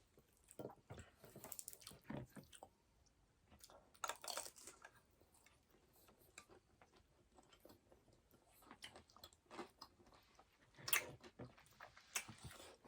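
A person chewing food close to the microphone: faint, irregular mouth clicks and small crunches, a few of them louder.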